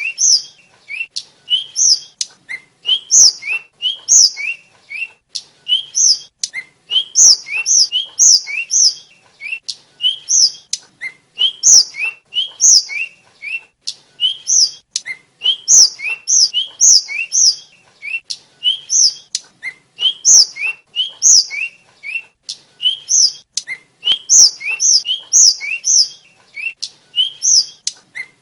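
Tledekan, a small sikatan flycatcher, singing a fast, unbroken string of short, sharp, high chirps, each paired with a lower slurred note, repeating about twice a second.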